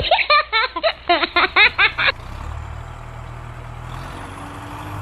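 A quick run of chirpy, pitch-sliding voice-like calls that cuts off abruptly about two seconds in. It is followed by the steady hum of a DIY mini tractor's small electric motor, with a faint whine joining near the end.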